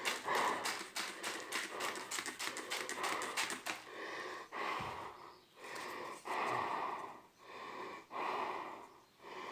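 A bonfire crackling rapidly for about four seconds, then a string of short breathy puffs close to the microphone, roughly one a second.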